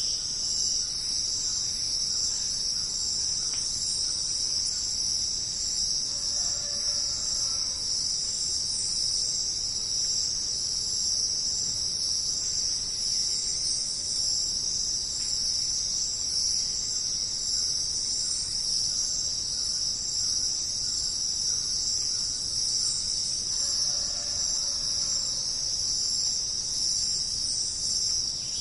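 Dense chorus of crickets chirring continuously, high-pitched and unbroken. A faint, lower call is heard twice, a few seconds in and again near the end.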